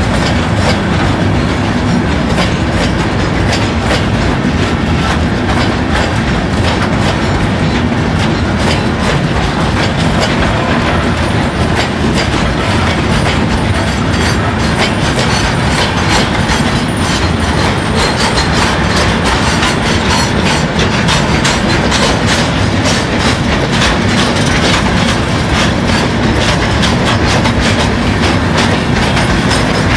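Freight train of covered hopper wagons rolling past close by: a steady rumble with wheels clattering over the rail joints in a continuous clickety-clack.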